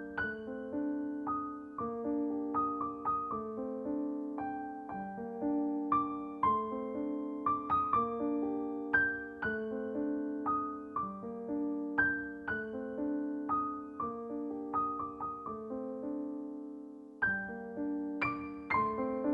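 Background music: a gentle solo piano piece, notes struck in a steady flowing pattern of chords, with a short lull about 16 seconds in.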